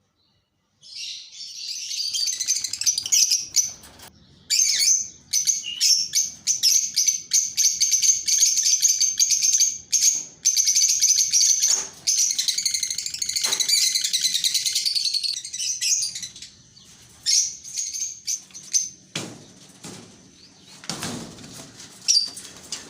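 Many small aviary birds chirping and chattering shrilly all at once, with wing flutters among the calls, for about fifteen seconds. Then the chatter thins out and a few low thumps come near the end.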